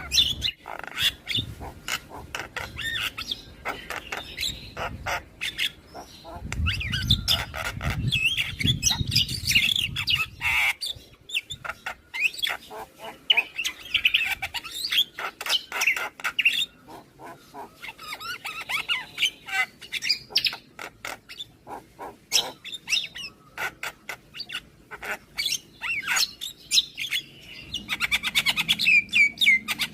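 Javan myna singing a long, varied run of rapid clicking chatter, squawks and whistled notes, in phrases broken by short pauses.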